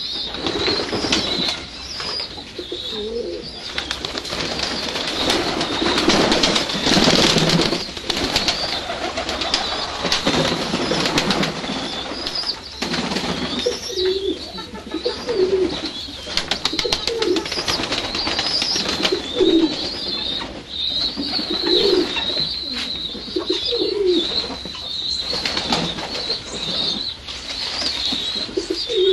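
Doves cooing in short low calls, repeated every second or two through the second half. Bursts of rustling noise come in the first half, and a continuous high, wavering chirring runs behind.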